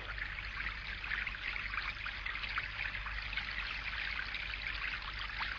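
Water trickling and lapping steadily, a soft even gurgle with small flickering splashes.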